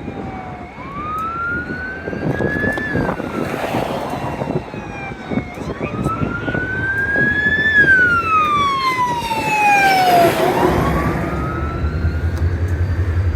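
Emergency vehicle siren wailing, its pitch rising slowly and falling again about twice and a half. A low engine rumble comes in near the end.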